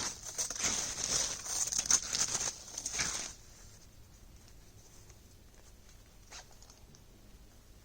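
Dense, irregular rustling and crunching that stops abruptly about three seconds in, followed by near quiet with one faint click about six seconds in.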